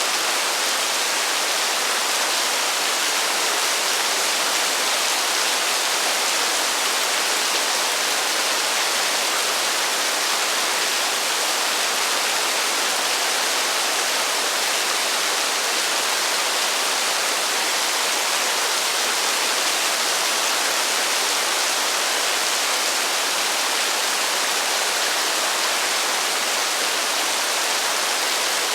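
Heavy rain falling steadily with no thunder: an even, unbroken hiss without separate drops or other events.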